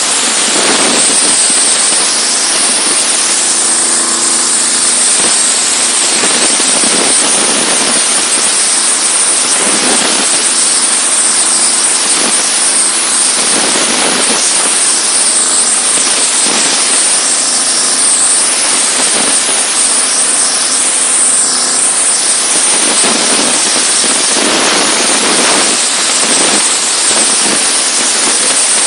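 Diesel-engine-driven high-pressure washer running, its jet spraying with a loud steady hiss that swells every few seconds over the low drone of the engine.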